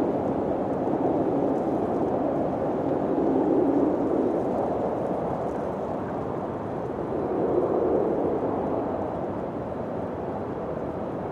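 Wind blowing in gusts: a steady, low rushing that swells three times, about every four seconds, and eases off toward the end.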